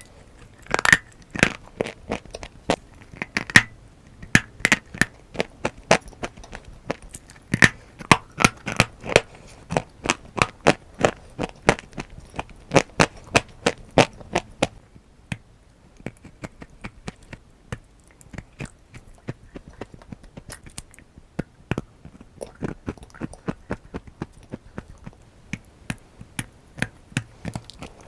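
Dry brown clay being crunched: a rapid, irregular run of sharp crackling crunches. They thin out and quieten for a few seconds past the middle, then pick up again more lightly.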